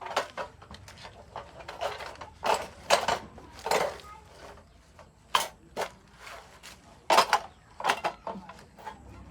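Irregular knocks and scrapes: about a dozen sharp strikes at uneven intervals, with a few longer scraping strokes in between, like hand work with tools.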